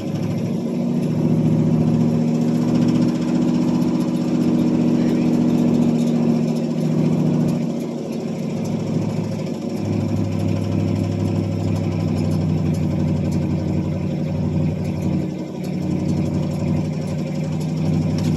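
Pontiac 301 V8 of a 1978 Bonneville running at a rough cold idle, its note sagging and picking back up several times. The owner believes a plugged idle circuit in the carburetor keeps it from idling once the choke comes off.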